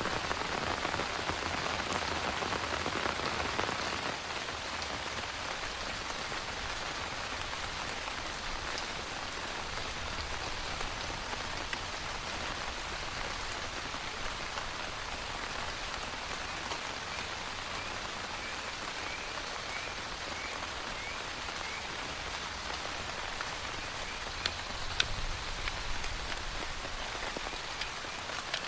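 Heavy rain falling steadily, a little louder for the first few seconds, with a couple of sharp taps near the end.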